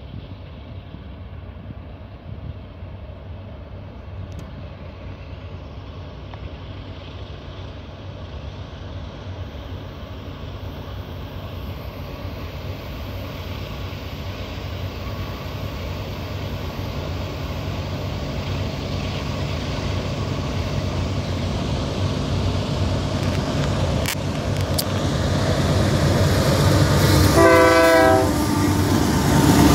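Freight train's diesel locomotives approaching and passing close, their engine rumble growing steadily louder. A short horn blast sounds near the end.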